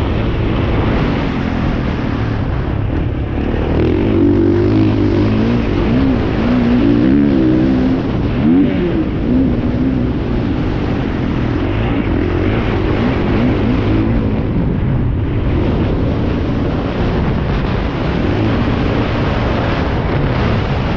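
Several motocross bike engines revving at once, their pitches rising and falling against one another over a constant engine roar.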